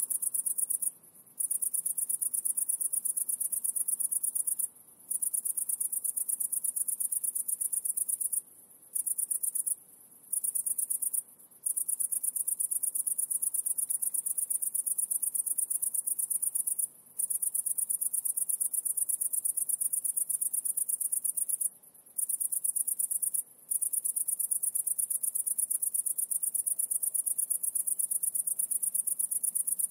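High-pitched, rapidly pulsing insect song, like crickets or katydids stridulating. It runs almost continuously, broken by about nine brief pauses of around half a second.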